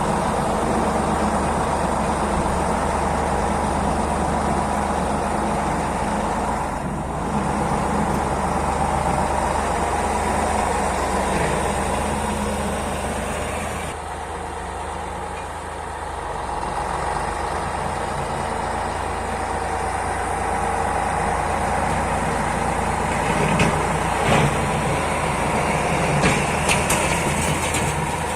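T-150 wheeled tractor's turbocharged YaMZ-236 V6 diesel running steadily, freshly overhauled. It drops a little in level around halfway through, and a few short knocks sound near the end.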